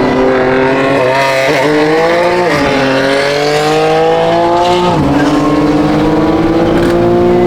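BMW M twin-turbo inline-six accelerating hard at full throttle from a rolling start. The revs climb, drop sharply on an upshift about two and a half seconds in and again about five seconds in, then climb once more.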